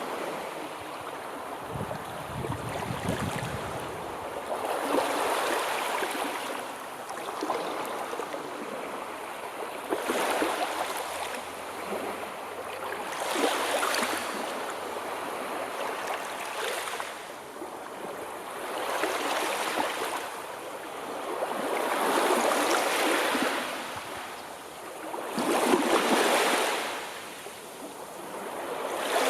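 Sea waves breaking and washing in, a steady hiss of surf that swells and falls back every three to four seconds. There is a brief low rumble about two seconds in.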